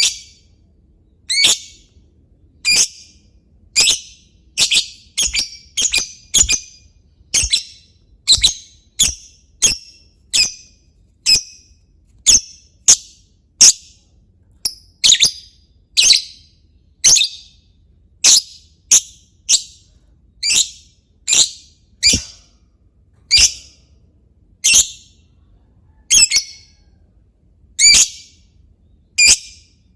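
Lovebird giving short, sharp single chirps one after another, roughly one a second at an uneven pace, some in quick pairs. This is the 'ngetik' (typing) call that keepers play as a lure to set other lovebirds calling.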